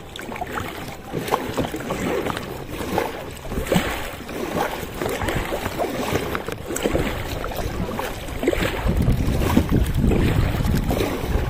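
Kayak paddles dipping and splashing in seawater in repeated strokes, with wind buffeting the microphone, heavier in the second half.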